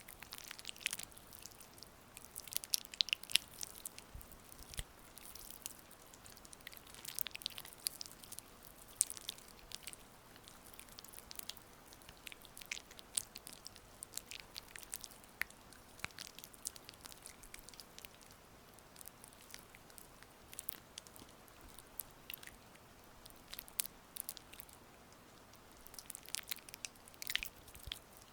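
Oiled hands massaging skin up close to the microphone, making soft wet, sticky clicks and crackles in irregular clusters. A faint steady rain hiss runs underneath.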